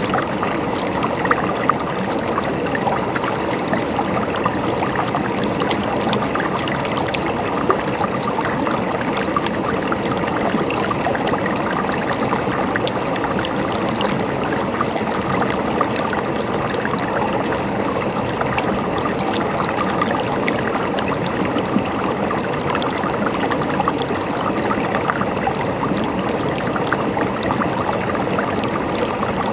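Flowing water, as of a stream, running and trickling steadily with many small splashes.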